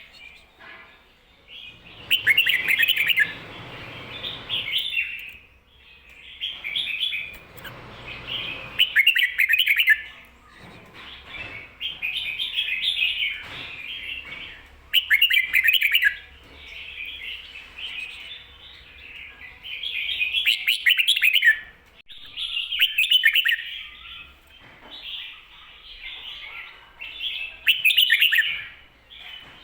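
Red-whiskered bulbul singing its doubled 'ko-ta-ra' song, the kind of recording used to teach caged bulbuls to sing. Short, rapid phrases repeat every two to three seconds with brief pauses between them.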